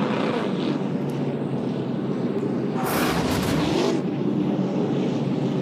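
NASCAR Truck Series V8 race engines droning on track, their pitch rising and falling as trucks go by, with a brief rushing noise about three seconds in.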